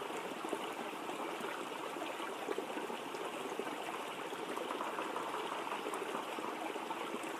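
Waterfall: a steady, even wash of falling water.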